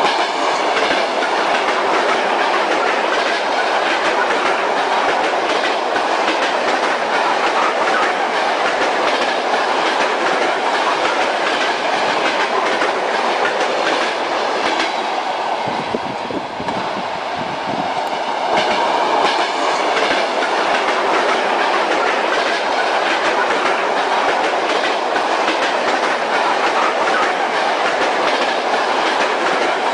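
Train wheels clattering over rail joints, with the steady rumble of a moving railway car. About halfway through the clatter briefly softens and a deeper rumble comes up, then the rhythmic knocking returns.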